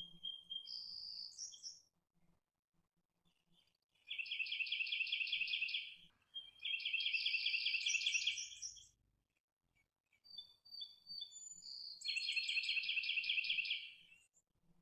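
Songbird singing: a few short high whistled notes, then three fast trilled phrases of about two seconds each, with brief high chirps between the second and third.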